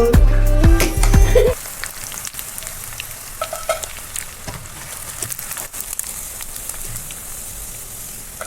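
Food frying in hot oil: a steady sizzle with small crackles. Music with singing ends about a second and a half in.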